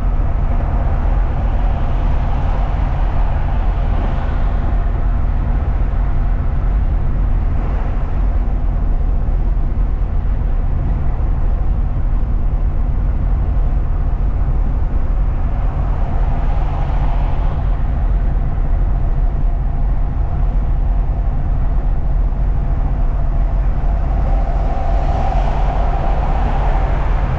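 A truck being driven, heard from the cab: a steady, loud low rumble of engine and road noise, with a few swells of higher hiss.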